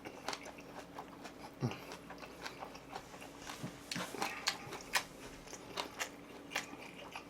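Close-miked chewing: a person eating, with irregular wet clicks and smacks of the mouth as the food is bitten and chewed.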